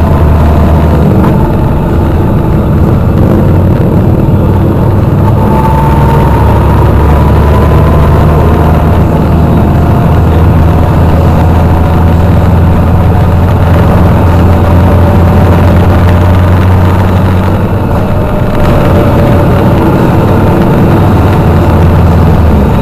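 Motorcycle engines running, loud and steady, with a deep continuous drone and a fainter engine note that slowly rises and falls in pitch.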